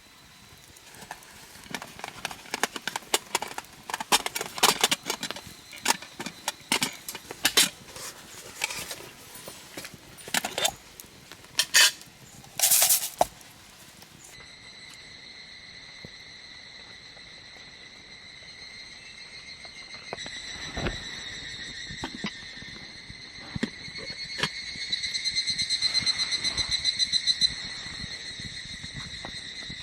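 A run of light clinks and knocks, like camp cookware and utensils being handled, with a short loud hiss near the middle. Then, after an abrupt change, a steady chorus of insects trilling, which swells for a few seconds near the end.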